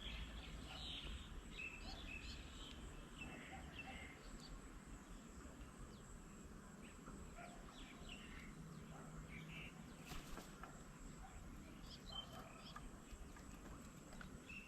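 Faint outdoor ambience with scattered short bird chirps and calls throughout, and a brief burst of noise about ten seconds in.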